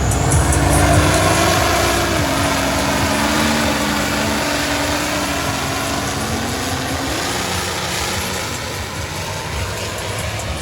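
Big off-road vehicle's engine running hard, its pitch dropping about two seconds in and climbing again around seven seconds, under a steady rush of noise.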